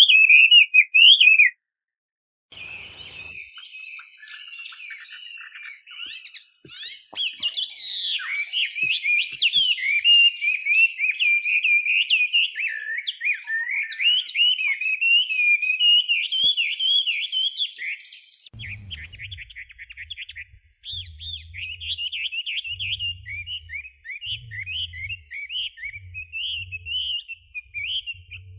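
Chinese hwamei singing a long, varied song of rapid whistled phrases, breaking off briefly near the start before resuming. In the last third a low, intermittent rumble runs beneath the song.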